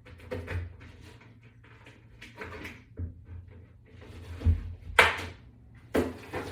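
Wall-mount boards being handled and set in place: scattered knocks and bumps, with a low thud about four and a half seconds in, then the loudest sharp knock and two more a second later.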